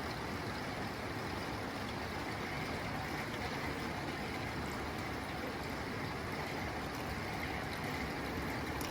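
Steady rain falling on a tin roof: a dense, even patter with no letup.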